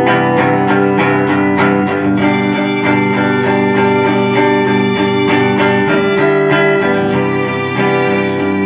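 A live band playing an instrumental passage between vocal lines: picked guitar notes, quick and even for the first couple of seconds, over held, sustained notes.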